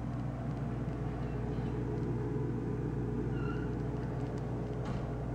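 Microwave oven running: a steady electrical hum with fan noise.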